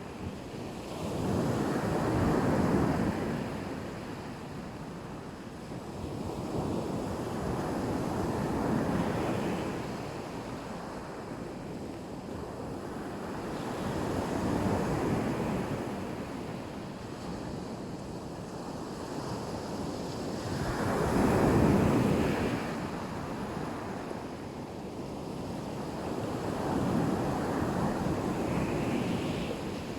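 Sea waves breaking and washing up on a beach: a steady surf, each wave surging and fading, five times about every six seconds, the loudest about two-thirds of the way through.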